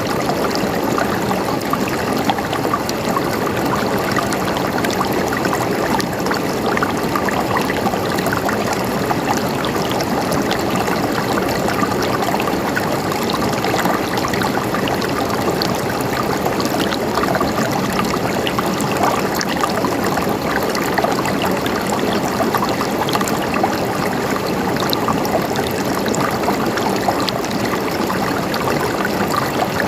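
River water flowing steadily over stones, a continuous rushing and trickling with small splashes and gurgles throughout.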